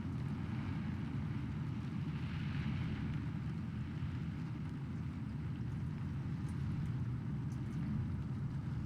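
Steady rain, a constant even wash of noise with a deep low rumble underneath and a few sharp drop ticks above it.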